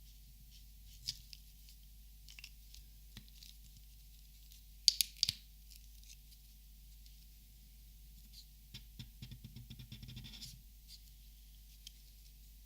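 Plastic Copic markers being handled: scattered light taps, a cluster of three sharp clicks about five seconds in, then a quick run of small clicks and rattles lasting about two seconds.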